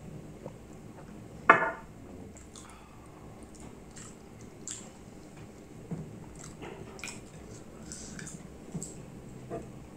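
Close-up eating sounds of a person chewing beef curry with rice by hand: soft wet smacks, squishes and small clicks, with one loud short mouth noise about a second and a half in.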